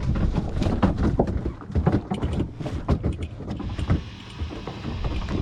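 Irregular knocks and clatter aboard a fishing boat over a low rumble, easing off after about three and a half seconds to a steadier hum and hiss.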